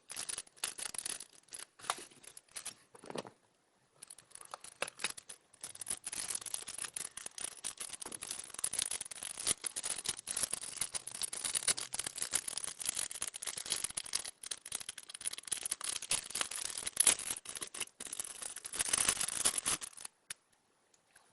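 Close-up hand-handling sounds: crinkling, rustling and small clicks of small materials being worked by hand. Scattered at first, near-continuous from about four seconds in, stopping abruptly near the end.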